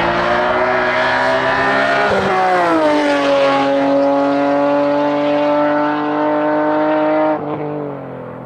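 Hillclimb race car's engine running hard as it drives past. Its pitch drops about two seconds in, then holds steady until the sound falls away sharply near the end.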